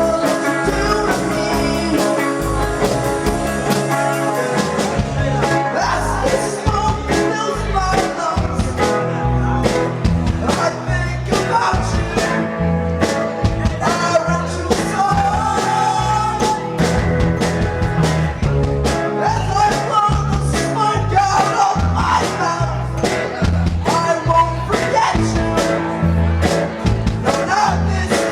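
Rock band playing a song: drums keeping a steady beat under guitars and a singer.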